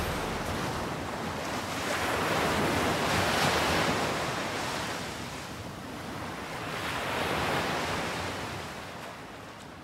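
Ocean surf washing in on a beach, swelling twice about four seconds apart, then fading out near the end.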